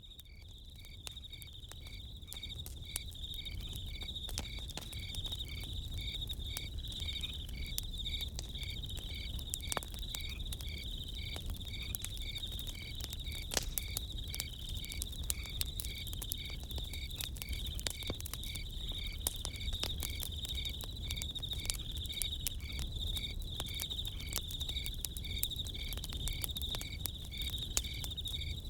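Crickets chirping in an even, steady rhythm over the crackle of a campfire, with sharp pops and a low rumble underneath; it fades in over the first few seconds.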